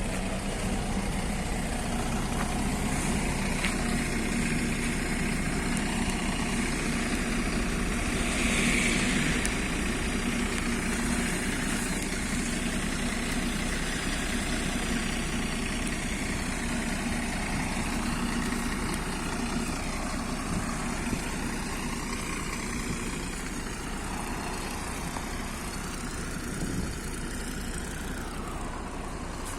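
MAZ-103.060 city bus heard from inside the passenger cabin: the engine runs with a steady low hum over road rumble, growing slightly quieter over the last several seconds.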